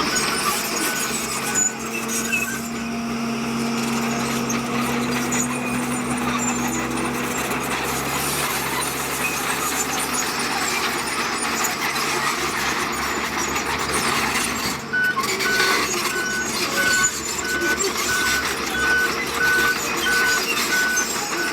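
Heavy earthmoving machinery running on a road construction site. An engine note holds steady through the first several seconds, and a reversing alarm beeps about twice a second at the start and again through the last third.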